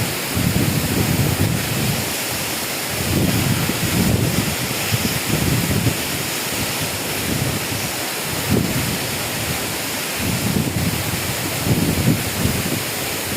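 Waterfall rushing steadily, with wind buffeting the microphone in low rumbling gusts every second or two.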